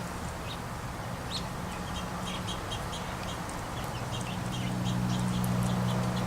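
Small songbirds chirping and twittering in many short, high calls, over a low steady hum that grows louder about two thirds of the way through.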